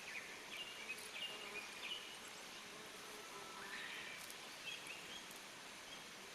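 Wild songbirds chirping in woodland: a string of short high notes, then a rising whistle a little before the middle and a few more short notes after it, over a faint steady hiss.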